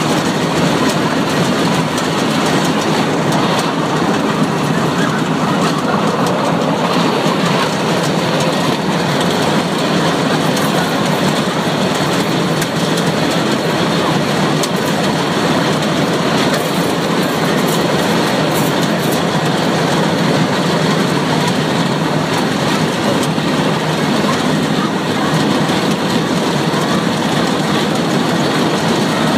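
Metre-gauge electric train running along the track, heard from the driver's cab: a steady noise of wheels on rail and running gear.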